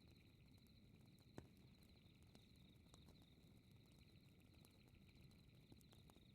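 Faint crackling fireplace with sharp pops, the loudest about a second and a half in, over a steady trilling chorus of night insects like crickets.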